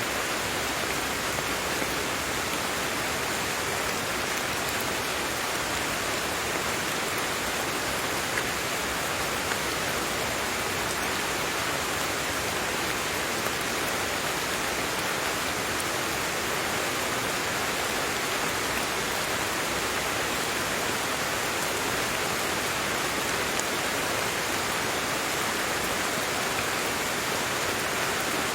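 Steady rain falling, an even hiss with no breaks or distinct drops.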